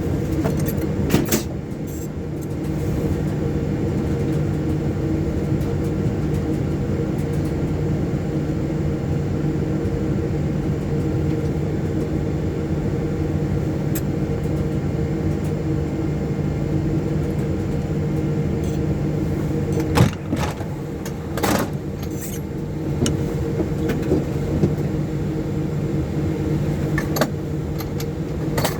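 Steady cockpit hum of a Boeing 737-800 taxiing, with several steady low tones, broken by a few sharp clicks: one about a second in, a single one near the middle, and two close together past the middle.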